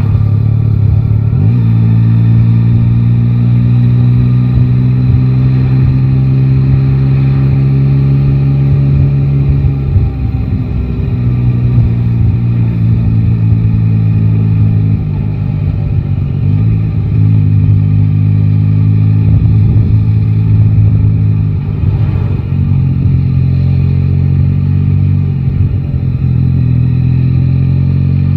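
Yamaha Tracer 9 GT's three-cylinder engine running under way, heard from the rider's seat. It holds steady revs for long stretches, with several brief dips and shifts in pitch as the throttle and gears change.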